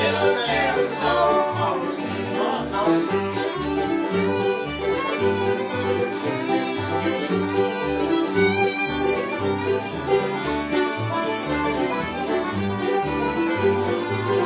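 Bluegrass band playing an instrumental break: fiddle and banjo lead over rhythm guitar and bass notes steadily about twice a second, with sliding fiddle notes in the first couple of seconds.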